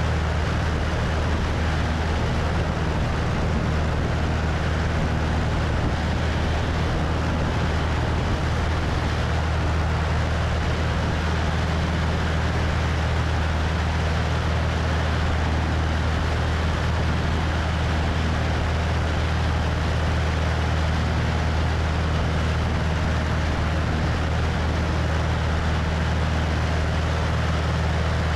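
Cessna 172's piston engine and propeller running steadily in flight, a constant low drone under the rush of wind over a wing-mounted microphone.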